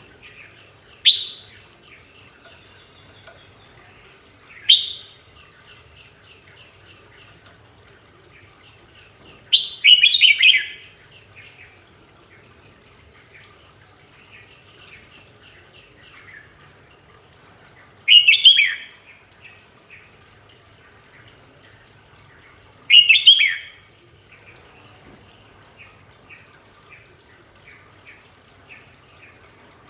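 A bird calling: five loud, sharp calls, each falling in pitch, spaced several seconds apart, with softer short chirps between them.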